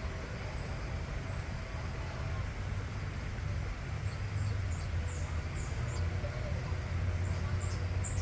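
Steady low rumble, with a run of short, high-pitched bird chirps starting about halfway through, each one quickly falling in pitch.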